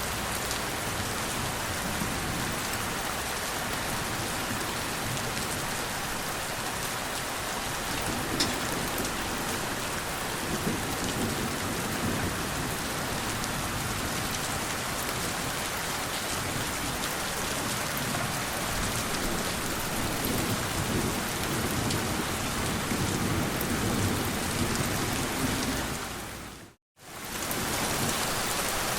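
Steady rain falling, with low rolling thunder rumbling through the middle and later part. Near the end the sound fades out to silence for a moment and comes straight back.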